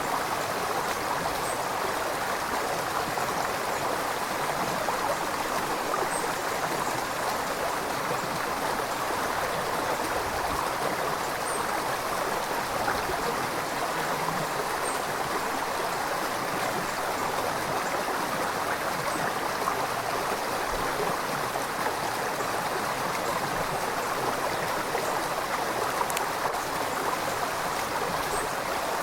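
River water flowing and babbling over rocks, a steady, even rush of running water.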